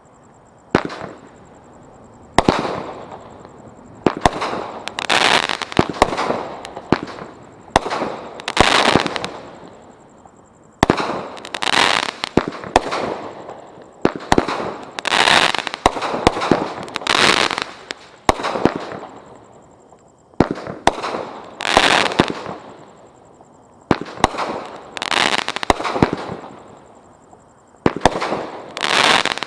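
Consumer fireworks from the Brothers Pyrotechnics Gas Money assortment firing shot after shot. Sharp bangs, each followed by a crackling tail, come every second or two.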